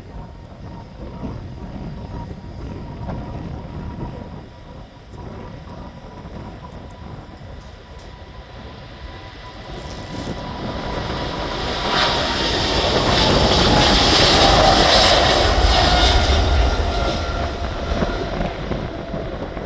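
Jet airliner's engines at takeoff power, passing by. The sound builds to its loudest about two-thirds of the way in while a steady engine whine drops in pitch as the aircraft goes past, then eases off.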